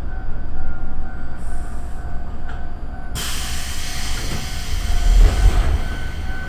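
Iyo Railway Yokogawara Line electric train running, with a steady low rumble and a faint steady whine. About halfway through, a sudden hissing noise starts and holds.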